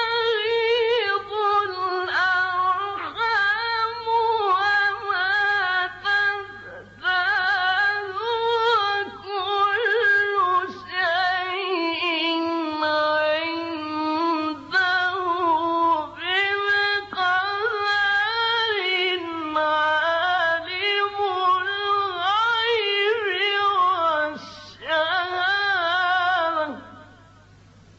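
A male reciter chants Quranic verses in maqam Bayat, one unaccompanied high voice in long, ornamented melodic phrases with short breath pauses. A low steady hum runs underneath, and the voice stops near the end.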